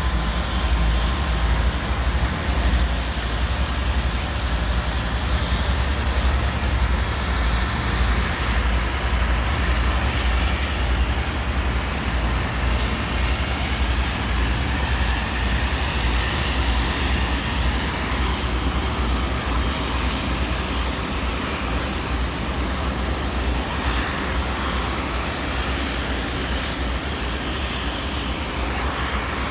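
Train running, a steady deep rumble with a wide noise of wheels and machinery, easing slightly toward the end.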